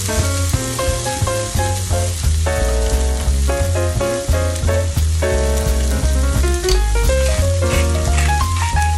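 Background music with melodic runs and a pulsing bass, over the sizzle of sliced onion and green onion frying in a nonstick pan.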